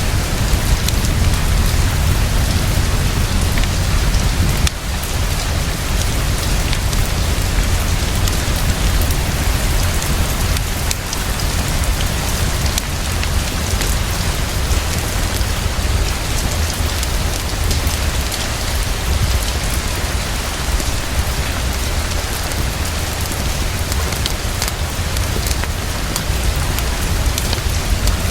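Heavy, fast, steady rainfall with a deep low rumble under it, and faint scattered crackles of a wood fire in a fireplace.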